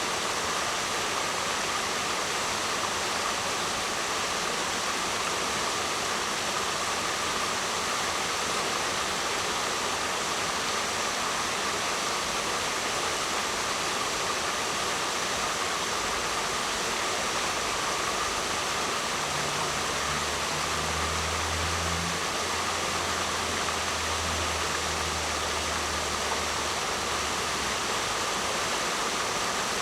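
Waterfall: a steady, even rush of falling water. A faint low hum comes in about two-thirds of the way through and fades a few seconds later.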